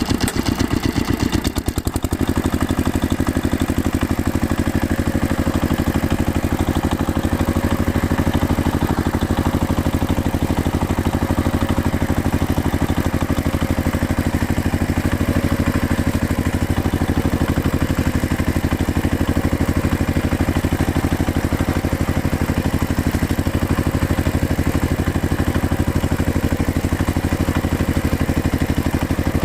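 JCB 5CX backhoe loader's diesel engine running steadily, with a brief change in its note about two seconds in.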